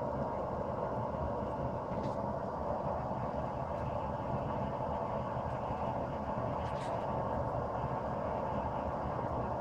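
Forge running with a steady, even roar, most of it low and deep, with a couple of faint ticks.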